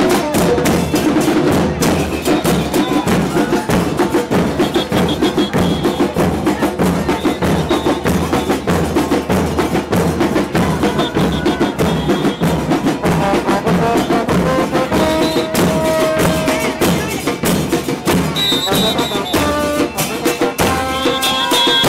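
A murga band playing: loud, dense, fast drum-and-cymbal percussion with short high held notes sounding over it now and then.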